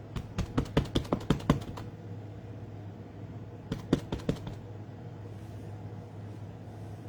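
Light, quick taps of an ink pad being dabbed onto a rubber stamp to ink it: about ten in a second and a half, then four or five more a couple of seconds later.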